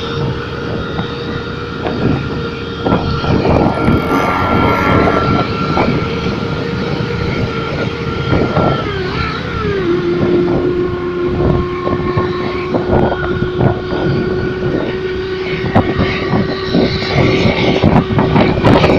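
Honda New Mega Pro motorcycle running with an electronic sound booster fitted, giving a steady engine-like tone that wobbles and drops a step in pitch about nine seconds in, with frequent short crackles throughout.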